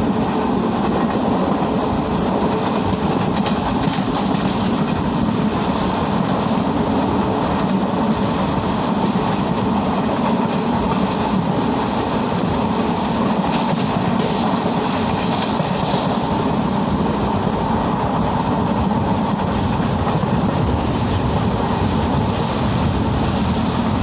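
Passenger train running at speed, heard from on board: a steady, even noise of wheels on the track.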